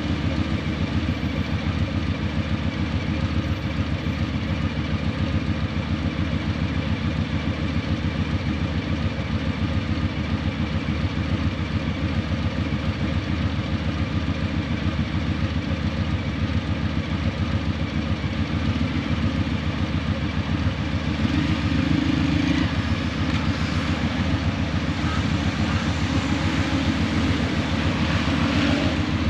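Harley-Davidson Breakout 117's Milwaukee-Eight 117 V-twin running steadily through Vance & Hines Eliminator 300 slip-on mufflers, its pitch holding almost constant with a slight swell about two thirds of the way through.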